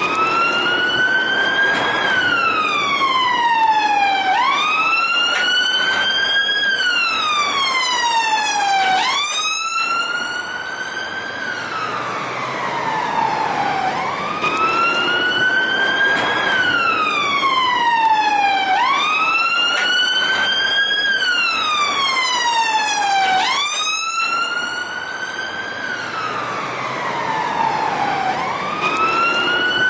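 Siren wailing: a tone that sweeps up quickly and then falls slowly, repeating about every four to five seconds.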